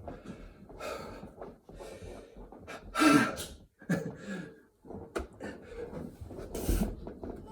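Heavy panting breaths of a man exhausted mid-burpee set, a gust about every second, with a louder grunting exhale about three seconds in.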